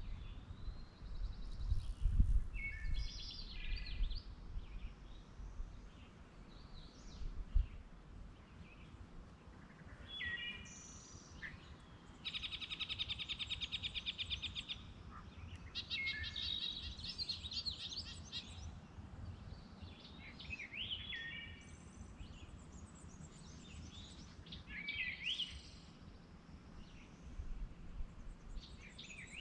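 Wild songbirds singing, with a run of varied chirps and whistled phrases and a fast, even trill of about three seconds near the middle. Low wind rumble sits underneath, and two dull thumps come in the first eight seconds.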